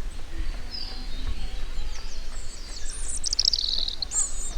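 Small songbirds chirping and calling in the forest, with a fast descending trill of short repeated notes about three seconds in. A steady low rumble runs underneath.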